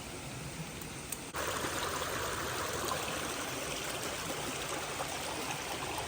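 Steady rush of running stream water. About a second in it cuts abruptly to a louder, closer stretch of the flow.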